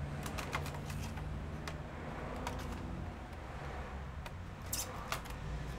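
Scattered light clicks and taps of a Toshiba Satellite L500 laptop's plastic parts being handled and pried apart, irregular and a few to the second, over a low steady hum.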